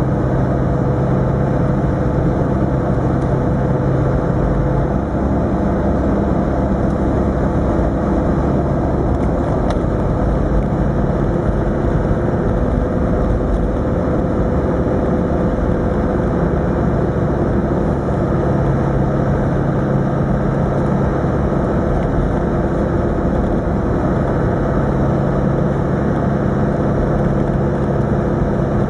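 Land Rover Defender 110's 300Tdi 2.5-litre four-cylinder turbodiesel running at a steady cruise, heard from inside the cab, with a constant rush of tyre noise over packed snow. The low engine note eases back about five seconds in and firms up again later on.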